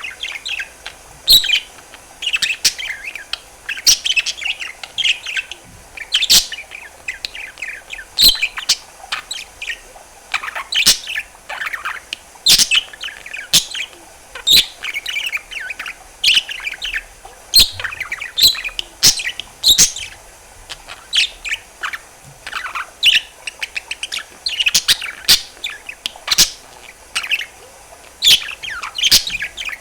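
Budgerigar chattering without a break: quick chirps, warbles and sharp clicks, many a second.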